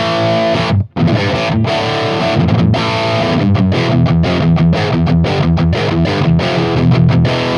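Electric guitar played through the blue channel of a Mooer Brown Sound preamp pedal: a distorted, moderately driven crunch tone rather than a high-gain one. The riff has short stops between chords.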